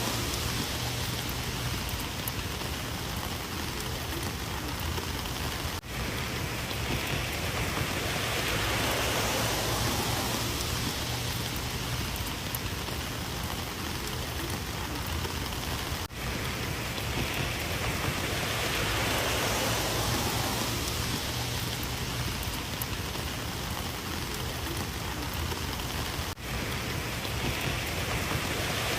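Steady rain falling, an even hiss of drops on surfaces, with a brief drop in loudness about every ten seconds.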